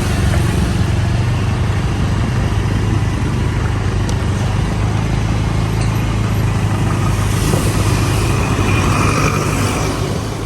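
A road vehicle running, heard from inside: a steady low engine hum with road noise.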